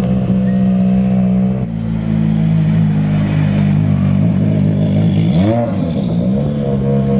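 Rally car engine running steadily, with one quick blip of the throttle about five and a half seconds in where the revs rise and fall back.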